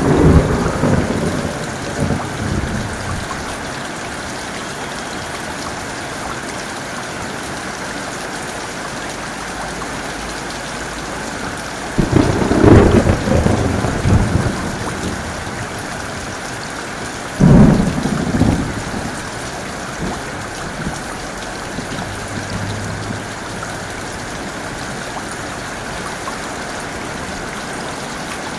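Steady heavy rain with thunder. A rumble fades over the first few seconds, then two sharp thunderclaps come about 12 and 17 seconds in, each rolling away over a second or two.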